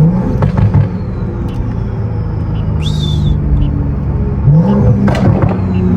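Turbocharged BMW M340i inline-six heard from inside the cabin, pulling twice with the engine note rising each time, a faint high turbo whistle sliding down after each pull. A short hiss with a high chirp comes about halfway through.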